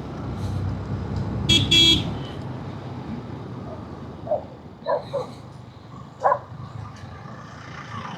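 Two short vehicle-horn honks in quick succession about a second and a half in, over a steady low road-traffic rumble.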